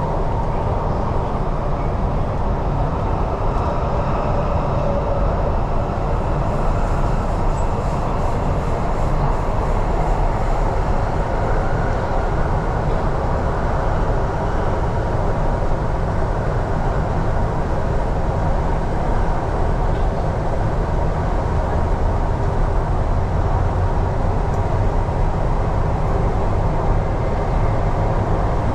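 MTR East Rail Line R-Train electric multiple unit running at speed, a steady loud rumble of wheels and running gear with a faint steady whine near 1 kHz.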